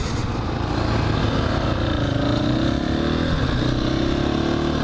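KTM 500 EXC-F single-cylinder four-stroke dirt bike engine running under way, heard from a helmet-mounted camera. Its pitch drifts up and then down a little around two to three seconds in.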